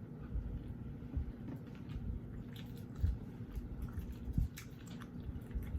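A person eating close to the microphone: chewing and biting food, with short clicks and a few soft low thumps scattered through.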